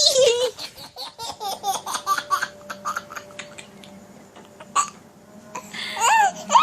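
A two-year-old toddler laughing in short repeated bursts, dying down for a moment in the middle, then breaking into high-pitched squeals near the end.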